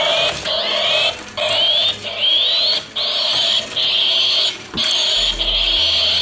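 Loud repeating electronic sound in chunks of about a second, broken by short gaps, with rising whistle-like glides over a steady high tone.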